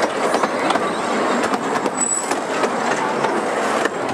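Small zoo train rolling along, heard from aboard an open passenger car: a steady rumble and rattle of the cars on the track with many irregular clicks, and a brief high squeak about halfway through.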